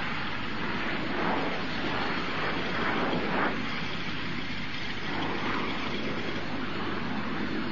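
Messerschmitt Me 262 jet engines running: a steady jet noise hiss that swells briefly about three seconds in.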